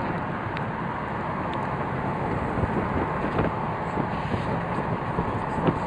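Wind rushing over the microphone with the steady noise of a car on the move, and a few light knocks toward the end.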